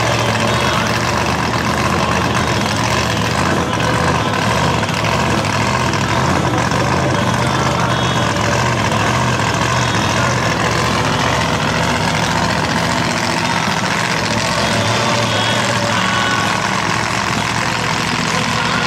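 Engine of a 1934 Willys Woody Wagon replica drag car, a 6.4-litre unit of about 865 hp, running steadily at low revs while the car moves slowly.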